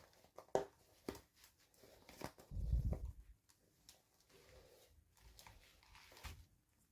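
Hands handling small plastic toys and packaging: scattered light clicks and taps, with a low bump and rumble about two and a half seconds in.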